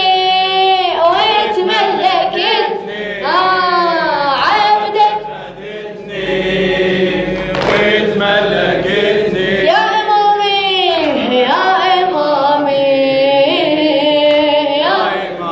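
A male reciter chanting a line of a Shia eulogy poem (latmiya) for Imam Hussein in a drawn-out, melismatic style, with long wavering notes that slide up and down in pitch and a short pause about five seconds in.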